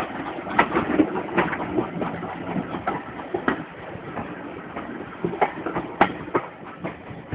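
Train running slowly on a preserved steam railway, its wheels clicking and knocking irregularly over the rail joints above a steady rumble.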